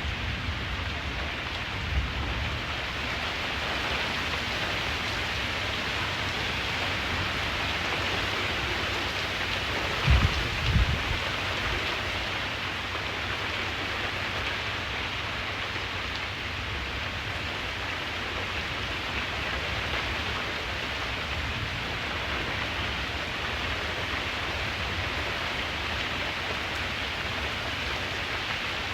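Steady rain falling, with a few short low thumps about two seconds in and again around ten seconds in.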